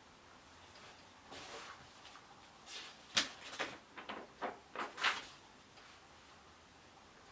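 A quick run of about eight short clicks and knocks over a few seconds, the loudest about three and five seconds in, over a faint steady hiss.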